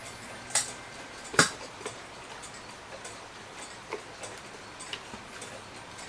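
A few light, irregularly spaced clicks and taps of small parts being handled on a cuckoo clock dial, the loudest about a second and a half in.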